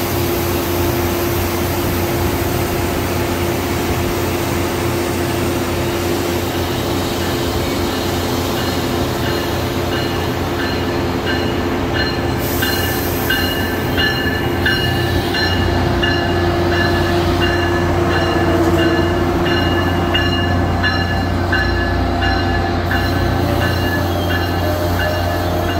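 Amtrak train hauled by an ACS-64 electric locomotive rolling into the station past the platform, Amfleet coaches passing close by. A steady low hum runs underneath, and from about eight seconds in a high-pitched squeal from the train pulses on and off in a quick rhythm.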